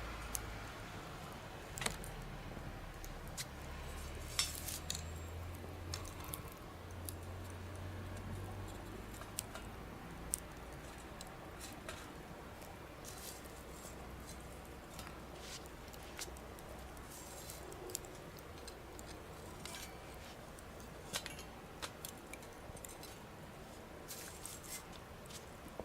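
Small campfire crackling: scattered sharp pops and snaps at irregular intervals, over a faint low rumble that fades out about ten seconds in.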